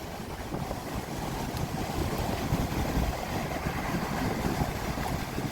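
Strong wind buffeting the microphone in a steady low rumble, over the wash of ocean surf.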